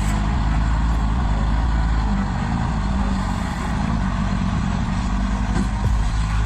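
Heavy truck's diesel engine running steadily, with a low hum and road noise.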